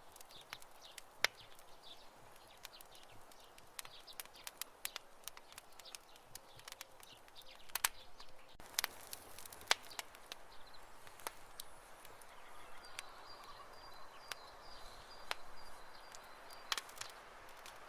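Campfire burning: wood crackling with sharp, irregular pops over a soft, steady hiss.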